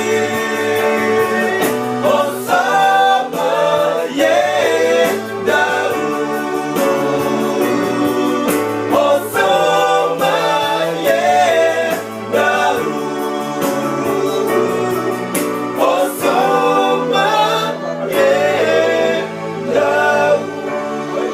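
Vocal quartet singing a gospel song in harmony, unaccompanied, with held low notes under moving upper voices.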